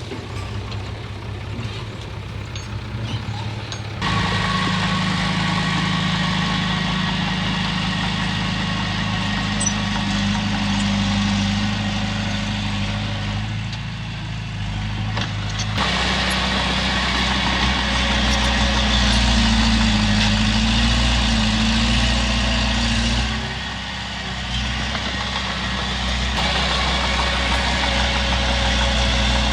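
Heavy diesel engine of earthmoving machinery running steadily, its note and loudness stepping up about four seconds in and shifting again around halfway, as if working under changing load.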